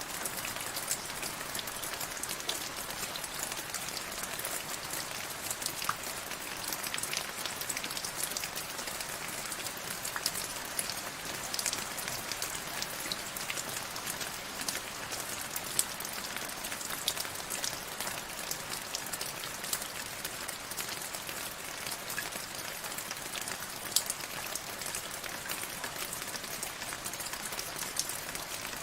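Steady rain falling, a dense even patter of drops striking a surface with many small distinct drop ticks.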